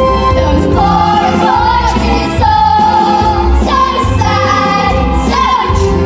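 Singing with instrumental accompaniment and a steady bass, from a stage musical performance.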